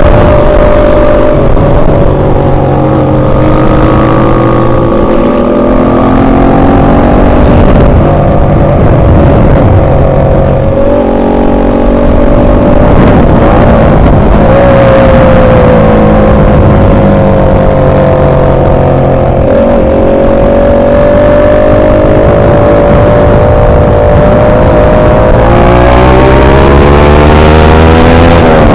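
Motorcycle engine running loud at road speed, its pitch sagging and climbing with the throttle, then climbing steadily over the last few seconds as it accelerates.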